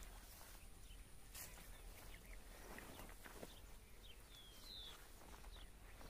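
Near silence with faint bird chirps: short, high, falling calls, two of them close together about four and a half seconds in, and a couple of soft clicks.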